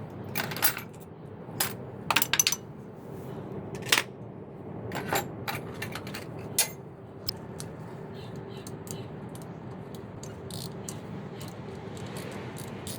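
Sharp metallic clinks and clanks of hand tools against metal parts during engine repair work, coming thick and fast in the first half and more sparsely later, over a steady low hum.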